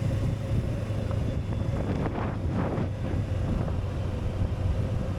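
Motorcycle engine running steadily, a low even hum, with wind buffeting the microphone.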